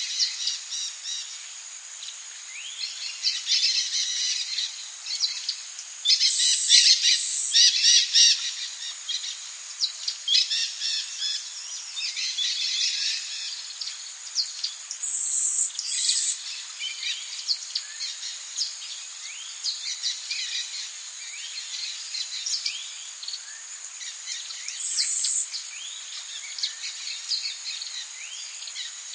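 Tropical rainforest birds calling and chirping over a steady high insect drone, with brief louder high-pitched buzzing bursts about six, fifteen and twenty-five seconds in.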